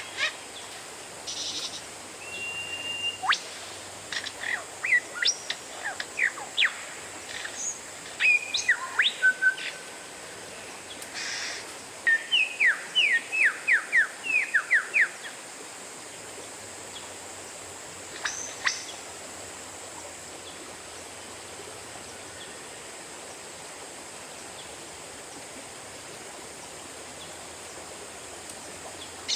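Oriental magpie-robin (kacer) singing. Its song is a varied run of clear whistles and sharp down-slurred notes, with a fast string of descending notes about twelve seconds in. The second half is mostly bare, with one more call a little later.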